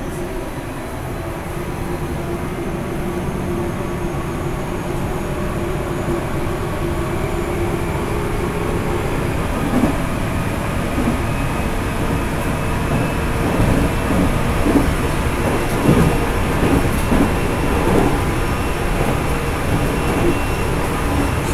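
373 series electric multiple unit heard from inside a car's vestibule while running: a steady rumble that slowly grows louder, with knocks and clatter from the wheels on the track from about ten seconds in.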